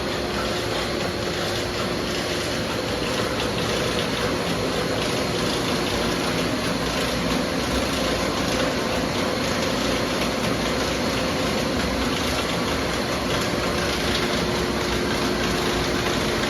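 Factory production machinery running steadily: an even mechanical noise with a few faint steady hum tones running through it.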